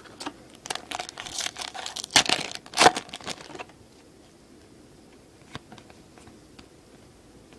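Foil wrapper of a baseball card pack being torn open and crinkled for about three and a half seconds, then a few faint ticks as the cards are handled.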